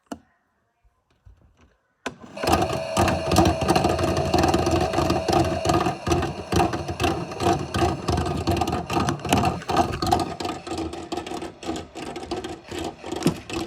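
A small electric motor switches on suddenly about two seconds in and runs with a dense, rapid rattling clatter over a steady hum.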